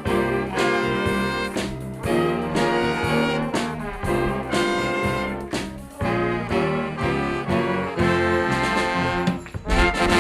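Junior jazz big band of trumpets, trombones and saxophones with rhythm section playing the closing bars of a tune, ending on a final accented chord near the end.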